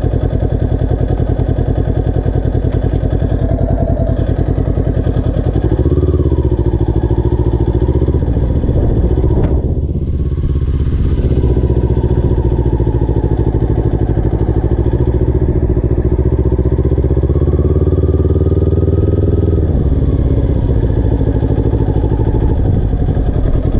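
Motorcycle engine idling, then pulling away about six seconds in and running at low speed, with a brief lull about ten seconds in. It settles back to idle near the end as the bike stops.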